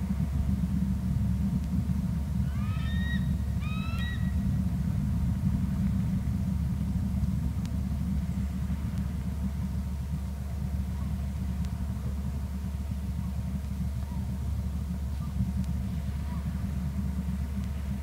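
A steady low rumble, with a bird calling twice about a second apart around three seconds in.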